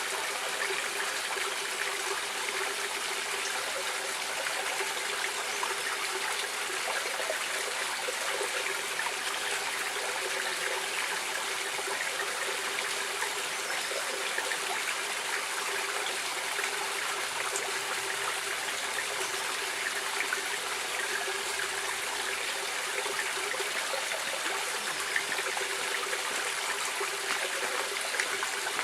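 Stream water flowing steadily, an even rush with small splashes throughout.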